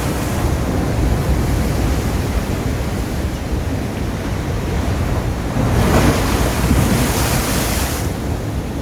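Sea waves washing on the shore in a continuous surf, one wave surging in with a rushing hiss about six seconds in. Wind buffets the microphone.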